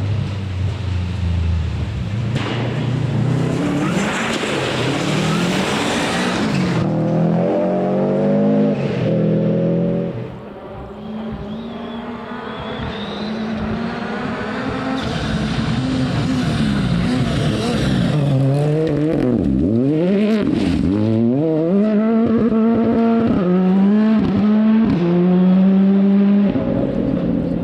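Rally car engine driven hard, its pitch climbing in steps through the gear changes. About twenty seconds in come sharp revving swoops on downshifts, then it pulls up through the gears again. There are bursts of tyre and loose-surface noise along the way.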